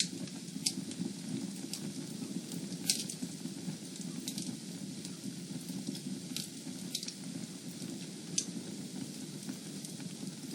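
Wood fire burning in a fireplace: a steady low rush of flames with scattered sharp crackles and pops, roughly one every second or so.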